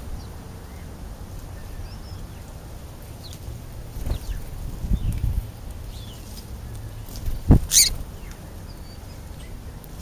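Small birds chirping faintly in short, scattered calls over a steady low rumble, with a few dull thumps around the middle and one sharp knock and rustle about seven and a half seconds in.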